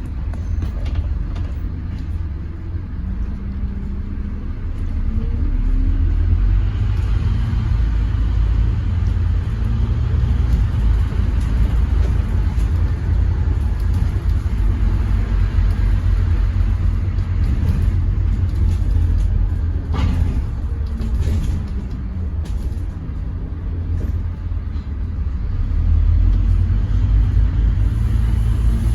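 Scania N230UD double-decker bus engine running with a heavy low rumble, pulling up and easing off through its gears. It gets louder about five seconds in and again near the end, with a few sharp rattles or clicks about two-thirds of the way through.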